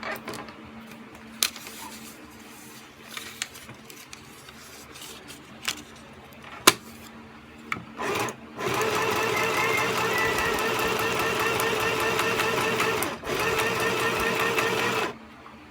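Sew Simple K1127 domestic electric sewing machine running steadily as it stitches a test row, for about six seconds with a brief stop partway, after a short start. Before it runs, a few scattered sharp clicks.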